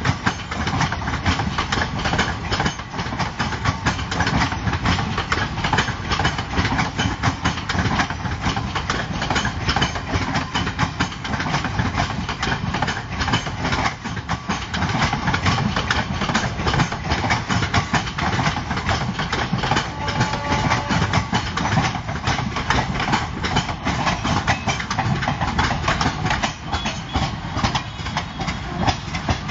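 A long train of Indian Railways passenger coaches rolling past, the wheels making a steady, rapid clatter over a low rumble. The last coach goes by near the end.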